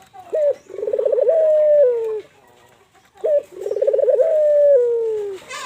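Puter (collared dove) cooing twice. Each call opens with a short note, runs into a fast rolling coo, and ends in a long, drawn-out note that sinks slightly.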